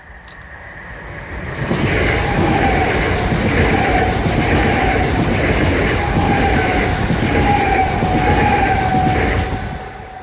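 Class 387 electric multiple unit passing at speed. The rumble builds over the first two seconds and stays loud, with a wavering whine and a rhythmic clatter of wheels, then fades near the end.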